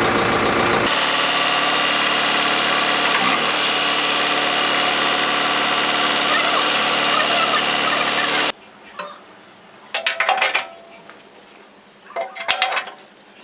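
A power tool running steadily and loudly on metal, cutting off suddenly after about eight and a half seconds, followed by two short metallic clatters.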